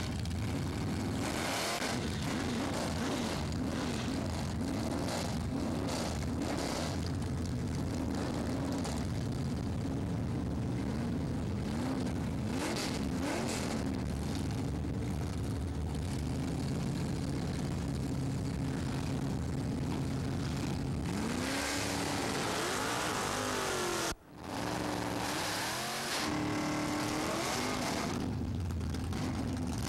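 Chevrolet drag-racing cars' V8 engines revving hard and running at full throttle down the strip, the pitch climbing and falling through the gears. A brief break about 24 s in, after which an engine is held at high revs during a smoky burnout.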